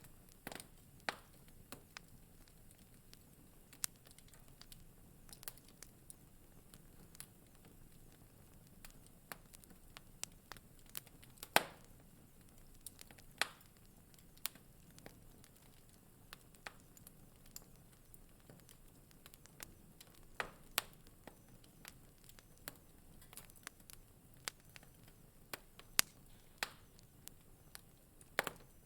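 Wood fire in a fireplace crackling: irregular sharp pops and snaps over a faint low hiss, one pop louder than the rest about halfway through.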